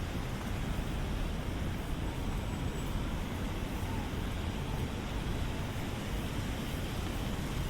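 Steady city street noise in the rain: traffic with a low rumble and rain hiss, no single event standing out.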